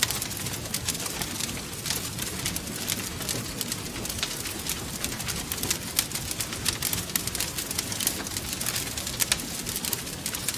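Wood fire crackling: dense, irregular pops and snaps over a steady low rumble of the flames.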